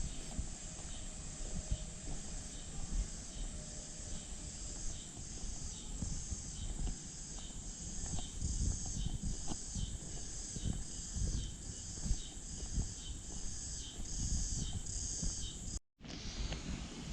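Summer cicadas calling in a high, pulsing chorus that swells about one and a half times a second, over a low rumbling noise. The sound cuts out for a moment near the end.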